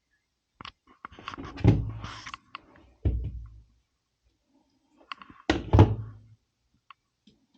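Hollow thuds and knocks in three bunches, the loudest about five and a half seconds in, from a front-loading washing machine being handled by hand.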